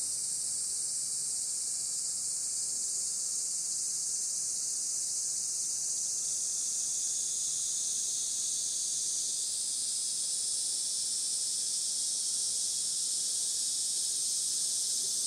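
Steady, high-pitched chorus of insects droning continuously without a break.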